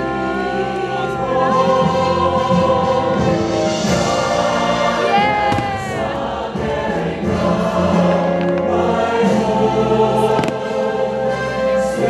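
Fireworks show soundtrack: a choir singing sustained notes over orchestral music, with a few sharp firework cracks now and then.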